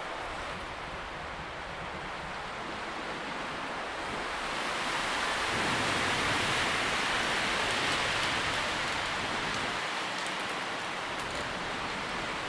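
Wind rustling through tree leaves, a steady rushing hiss that swells in a gust about halfway through and then eases a little.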